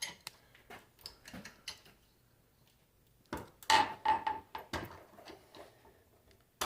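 Metal tools and alternator parts clinking and knocking against each other, with scattered light taps and then a cluster of louder clanks about three and a half seconds in, one of them ringing briefly.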